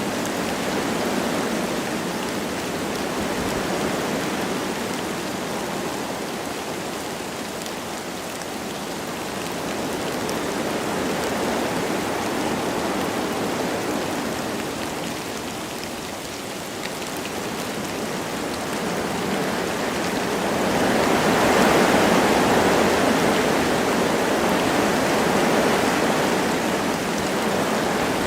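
Wind blowing through forest trees with light rain, a steady rushing that swells and eases in slow gusts, strongest about three quarters of the way through.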